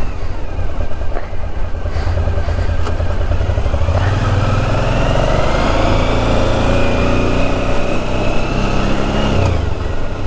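Motorcycle engine running over wind noise. About four seconds in, its note rises steadily as it accelerates, then drops away abruptly near the end.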